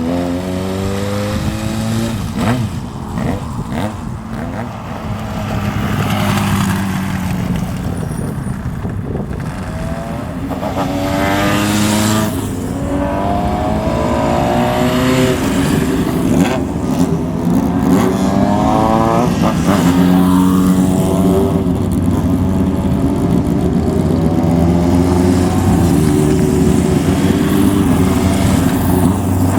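Motorcycle engines revving as bikes pull away one after another. Their exhaust notes rise and fall in pitch over other engines idling, and the sound grows louder from about halfway through.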